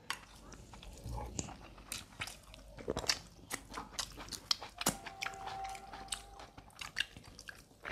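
Close-miked eating sounds: chewing, biting and wet mouth clicks from people eating rice and stew by hand and barbecued chicken, coming irregularly all through.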